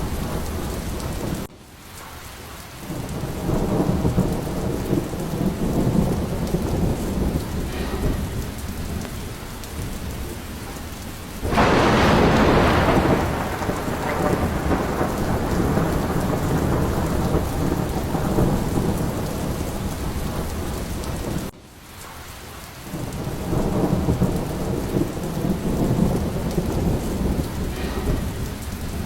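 Heavy rain falling steadily with rolling thunder rumbling in swells. About eleven seconds in, a sudden loud thunderclap breaks and fades over a couple of seconds. Twice the sound drops away abruptly and builds back up.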